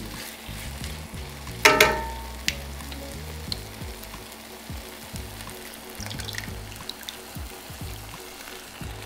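Tomato sauce base sizzling and frying in a cast iron skillet over a gas burner, with a single loud metallic clank about two seconds in and a few light ticks after it.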